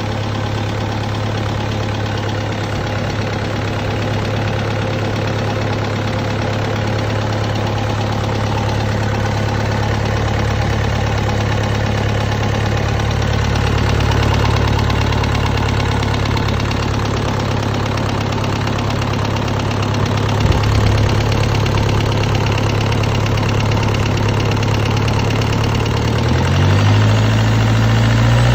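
Isuzu 4JB1T four-cylinder turbodiesel running steadily at idle. Near the end its speed rises and holds higher.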